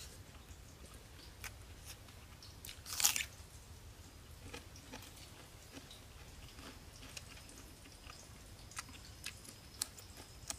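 A person chewing and biting into fried bread, with moist mouth clicks and a louder crunchy burst about three seconds in. Sharp clicks come near the end, and a faint steady high tone starts a little past halfway.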